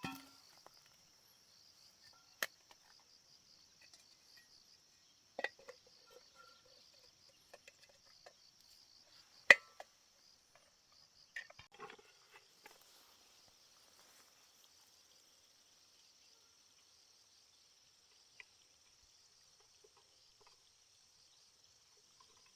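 Crickets chirping in a steady, pulsing high trill, with a few sharp clicks and knocks of tools being handled, the loudest about nine and a half seconds in.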